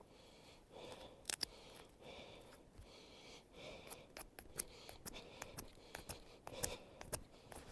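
Small pocket-knife blade working a dry hazel stick: a faint run of short, sharp clicks and scrapes of steel biting into wood.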